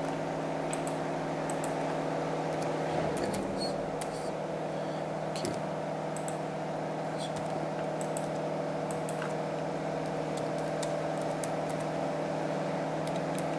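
Steady electrical hum with faint, scattered computer keyboard and mouse clicks.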